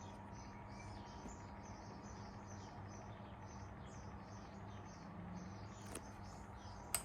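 Homemaker box fan running with a steady low hum and a faint, high ticking about three times a second, with a sharp click near the end.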